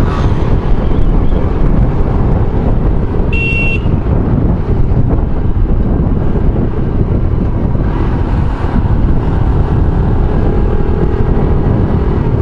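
Steady wind and road noise of a Yamaha YBR 125G motorcycle riding through town traffic. A short high beep comes about three seconds in.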